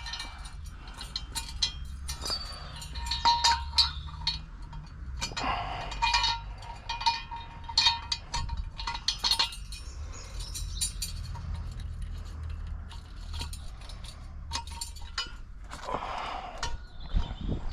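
Irregular metal clinks and knocks, some ringing briefly, as a car jack and jack stands are handled and positioned under the car, over a low steady hum.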